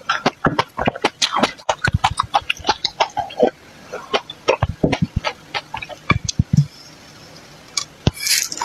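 Close-up mouth sounds of chewing something crunchy: a fast, irregular series of sharp crunches that thins out after about six seconds. Near the end comes a brief slurp as liquid is drawn from a glass spout.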